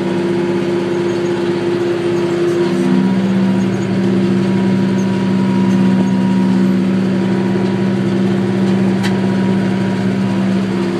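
McCormick GX50 utility tractor's diesel engine running steadily under load, driving a 5-foot brush hog through rough ground. The drone's tone shifts slightly about three seconds in, with a single faint click near the end.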